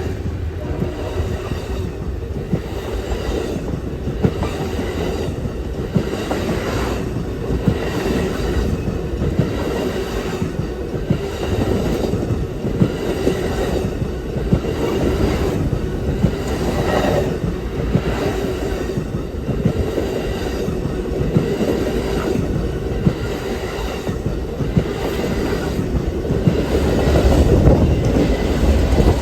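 Amtrak Auto Train's passenger cars and autoracks rolling past on the rails: a steady rumble of wheels with regular clicks over the rail joints and a faint steady wheel squeal.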